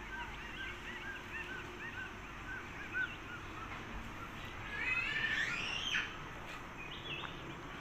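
Wild birds calling in forest: a run of short, evenly repeated chirps, then a louder burst of overlapping rising and falling calls about five seconds in.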